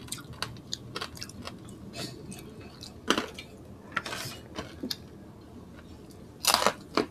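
Close-miked eating sounds: two people chewing and smacking on roast pork and chicken with rice eaten by hand, a run of small wet clicks, with sharper crackles about three and four seconds in and a louder pair near the end.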